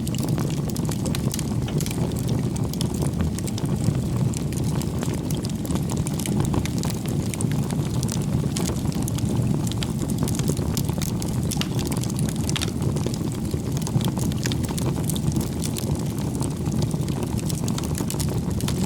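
Bonfire of firewood burning: a steady low rush of flames with frequent sharp crackles and pops from the burning wood.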